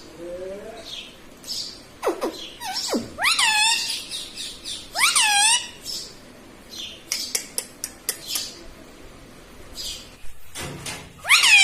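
Pet parrot calling: three loud, rising squawks, about a third of the way in, near the middle and at the end, with a couple of falling whistles and many short, high chirps and clicks between them.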